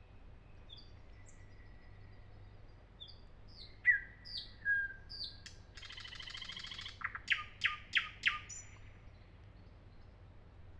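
Nightingale singing one song phrase: soft whistled notes, then loud sharp notes, a rapid rattling trill about six seconds in, and a run of four loud clacking notes near the end.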